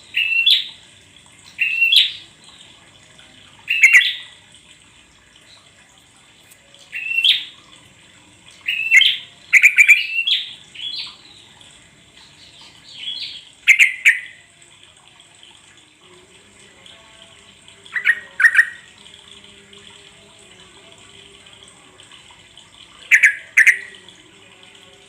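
Yellow-vented bulbul (trucuk) giving short, bubbly call phrases, one to a few notes at a time, repeated every few seconds with pauses between: a lure call played to get a captive trucuk singing. A faint steady hiss lies underneath.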